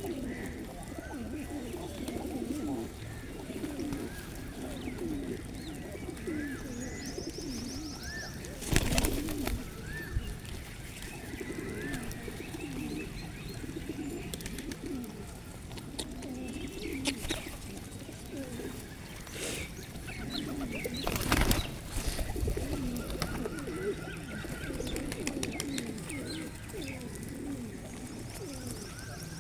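A flock of pigeons cooing continuously, many calls overlapping, with a few small birds chirping. Two loud rustling bursts come about a third of the way in and again about two thirds in.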